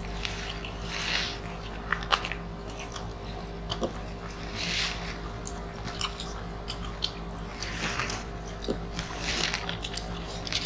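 Several people chewing and biting grilled chicken and rice eaten by hand, with wet mouth sounds and scattered small clicks.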